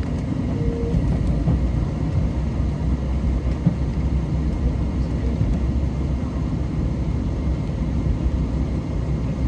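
JR Shikoku 2000 series diesel railcar running at speed, a steady low rumble of engine and wheels on rail heard from inside the carriage.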